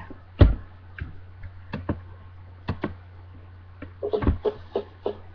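Scattered knocks and taps of someone handling a ukulele while getting ready to play, with the loudest thump about half a second in and a cluster of taps around four seconds in, over a steady low hum.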